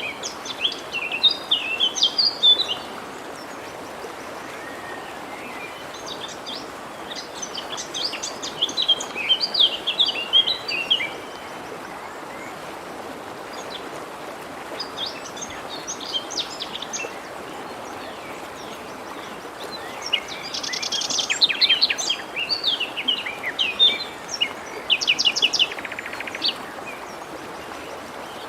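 Songbirds singing in bouts of quick, high chirps and trills, four times with pauses between, over the steady rush of a forest stream.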